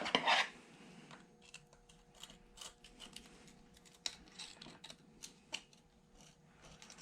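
Light, irregular clicks and taps of small metal engine parts and screws being handled and set down during hand disassembly, with a brief louder rustle at the start. A faint steady hum runs underneath.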